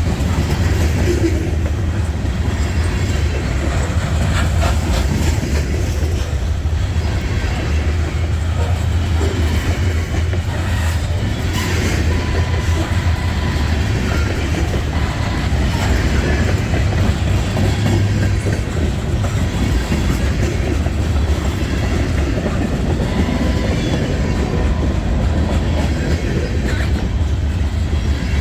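Freight train cars rolling past at close range: a steady, loud rumble with the clicking of wheels over rail joints.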